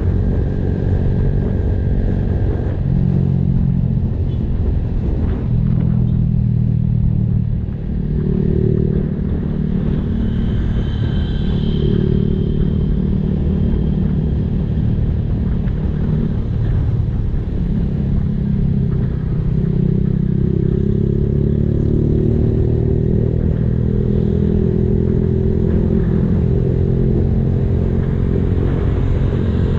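Honda Blade 110 cc single-cylinder underbone motorcycle with an aftermarket racing exhaust, heard while riding: a steady engine note that rises and falls with the throttle, with a brief drop about eight seconds in.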